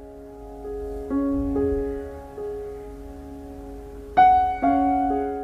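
Soft, slow background piano music: single sustained notes and chords, with a new chord struck about a second in and another about four seconds in, each left to ring and fade.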